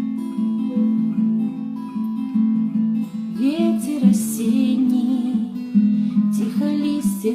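Acoustic guitar fingerpicked, a steady repeating pattern of low plucked notes opening the song.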